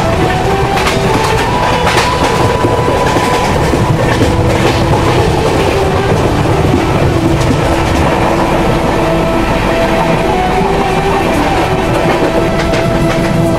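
Passenger train running at speed, heard from on board: a steady loud rumble with the wheels clicking over the rail joints.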